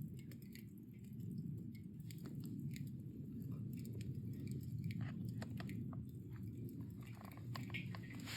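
Wood campfire burning down to embers: a steady low rumble of burning with scattered small crackles and pops, which grow more frequent in the second half.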